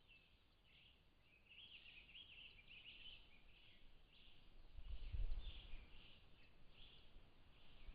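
Faint chorus of small birds chirping and calling. A low rumble comes in about five seconds in and is the loudest sound.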